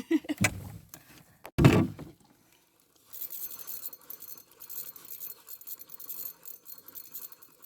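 A thump about one and a half seconds in, then, after a short gap, a faint steady scratchy whirring of a fishing reel being cranked as the line is retrieved.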